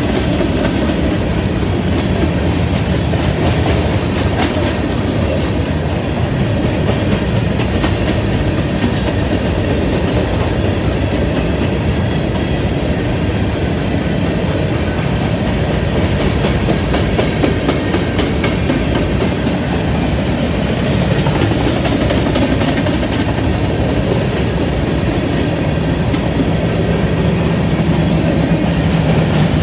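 BNSF covered hopper cars of a grain train rolling past: a steady rumble of steel wheels on rail with clickety-clack as the wheels pass over rail joints.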